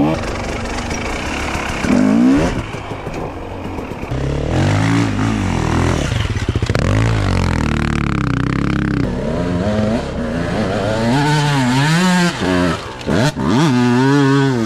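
Two-stroke dirt bike engine revving hard, its pitch rising and falling with the throttle: a steadier lower run in the middle, then a series of quick rev swings near the end.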